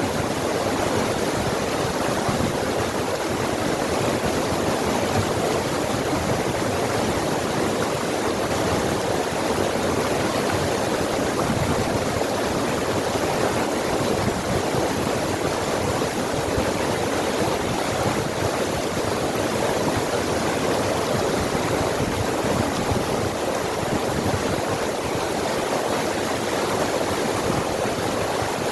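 Forest stream rushing over rocks, a steady full splashing rush of water.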